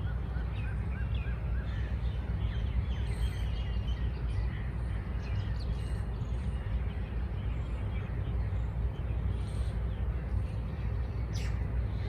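Birds chirping and calling over a steady low rumble, with a quick run of about five repeated notes at the start and scattered chirps after. A short sharp sound comes near the end.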